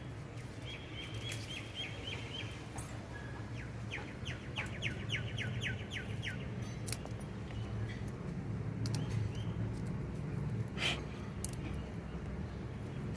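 A bird chirping in two quick runs of rapidly repeated high notes, over a steady low background rumble. A short crackle, like leaves being handled, comes near the end.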